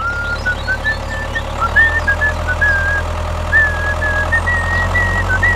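A steady low hum, like a small motor running, under a high, thin tune of short notes stepping up and down in pitch.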